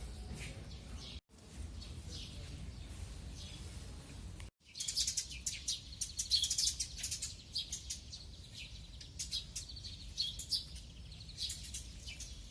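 Small songbirds chirping and singing. The calls are faint at first, then from about five seconds in a busier, louder run of quick high chirps and trills. The sound cuts out completely twice, for a moment each, at about one and at about four and a half seconds.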